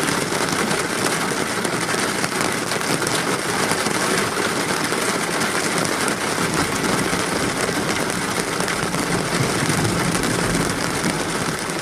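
Steady rain, an even hiss with many fine drop sounds, over a low rumble.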